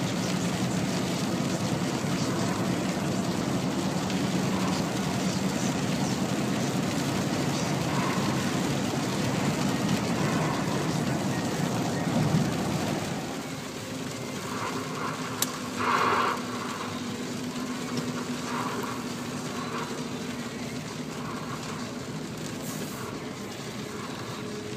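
A car driving on the motorway through a heavy thunderstorm downpour: steady rush of tyres on the wet road and rain, under a low engine hum. About halfway through the noise drops to a lower level, with a few short mid-pitched sounds and a click after it.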